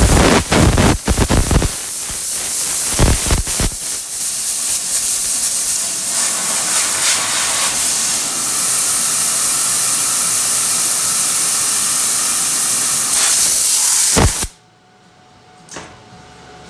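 Welder crackling in short bursts on sheet-metal panel tacks. Then a loud, steady hiss for about ten seconds that cuts off sharply near the end.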